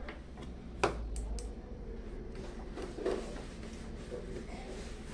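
Brastemp 12 kg washing machine running a wash with blankets and towels: a steady low hum with a couple of short knocks from the load and drum.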